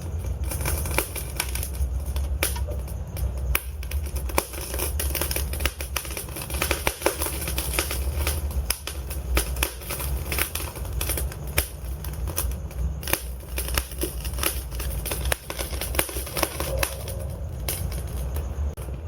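Wood fire in a fireplace burning, with frequent sharp crackles and pops over a steady low rumble of the flames.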